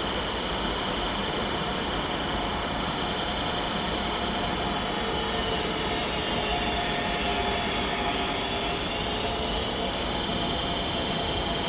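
DB Cargo class 185 electric locomotive hauling closed freight wagons, rolling steadily past with an even noise of wheels on rail and high steady ringing tones over it. A fainter lower tone dips and comes back up around the middle.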